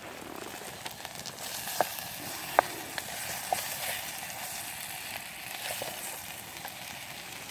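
Wood fire crackling: a steady hiss with a few sharp pops, the loudest about two and a half seconds in.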